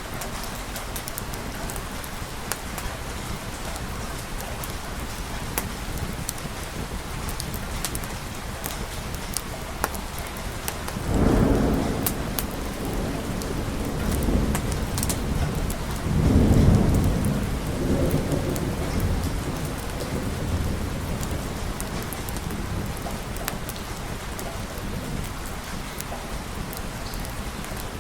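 Steady rain with sharp little ticks and pops throughout. Thunder rumbles twice in the middle, the second rumble longer and louder and trailing off over a few seconds.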